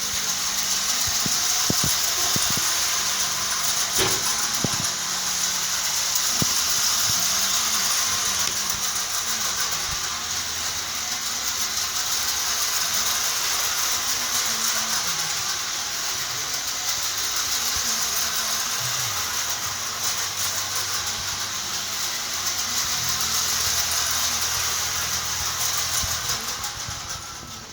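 Clockwork movement running after its repair: a steady whirring hiss with a few scattered clicks, stopping just at the end.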